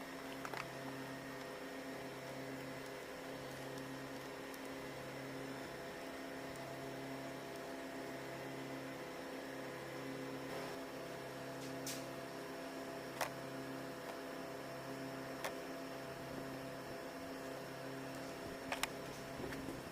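A low electrical hum that pulses on and off about every second and a half over a faint steady tone, with a few sharp clicks near the middle and end.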